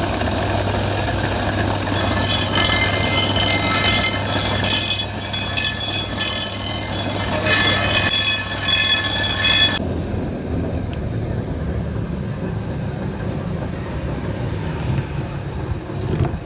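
Workshop machinery with a high metallic screech of many tones over a steady low hum; about ten seconds in, the screech cuts off suddenly and only the low hum goes on.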